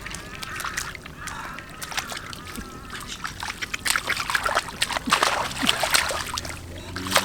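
Shallow water sloshing and splashing, as when someone wades or works with their hands in floodwater. The splashes come thick and quick from about halfway through.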